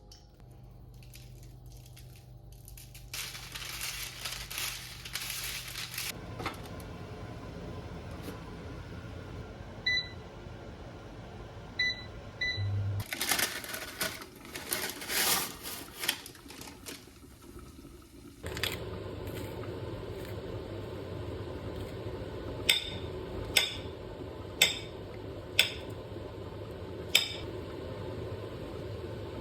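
Kitchen cooking sounds. There is a stretch of rushing noise, three short electronic appliance beeps, then a steady hum with five sharp knocks about a second apart near the end.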